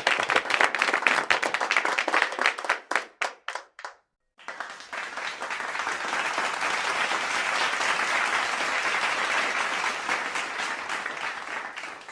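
Audience applause that thins out to a few last single claps and stops about four seconds in. After a short gap, a second, steadier round of applause from a larger crowd starts and runs on evenly.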